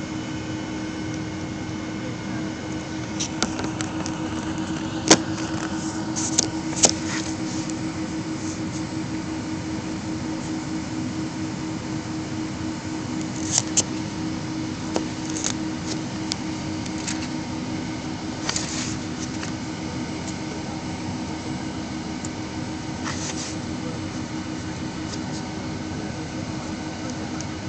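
Airliner cabin noise on the ground: a steady hum of the jet engines at idle and the cabin air, with a constant low tone. A few sharp clicks and knocks stand out, the loudest a little after five seconds and again near fourteen seconds.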